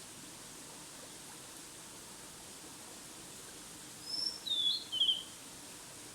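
A small songbird sings one short phrase about four seconds in: three quick, bright notes, each lower than the last, the last a brief trill. Under it runs the steady rush of a mountain stream.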